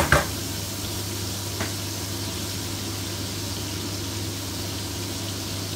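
Sliced onion rings sizzling steadily in butter in a frying pan, with a sharp knock right at the start and a lighter click about a second and a half in.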